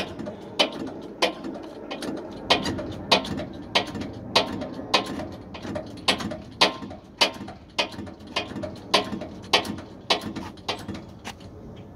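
Jack under a boat trailer being pumped by hand, lifting the trailer with the flat tires: sharp mechanical clicks come about every 0.6 s, with a short pause about a second and a half in.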